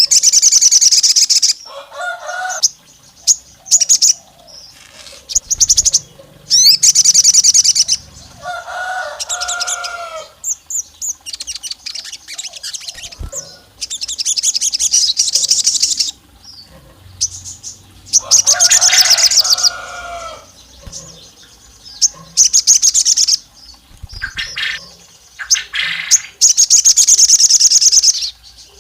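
Sogon songbird calling: loud bursts of rapid, high-pitched chattering trills every few seconds, with lower two-note whistled phrases in between. This is a sogon call of the kind used as a lure ('pancingan') to provoke male sogon into singing.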